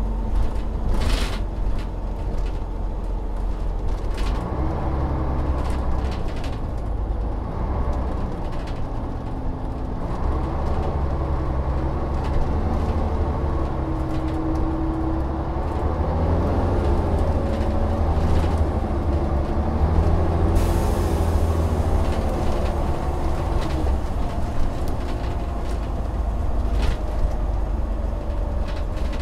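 Volvo Olympian double-decker bus's diesel engine under way, its note rising and falling in steps as the bus pulls through the gears, with rattles and a few sharp knocks from the vehicle and a hiss coming in about twenty seconds in.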